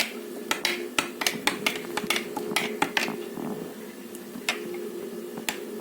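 Metal spoon clinking against a glass jar while stirring fruit into thick homemade yogurt: quick sharp clinks, about three or four a second, thinning out to a few single clinks after about three seconds.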